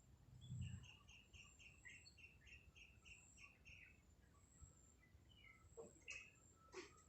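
A bird chirping faintly, a quick run of about a dozen short, evenly repeated notes at about four a second, then two sharp clicks near the end.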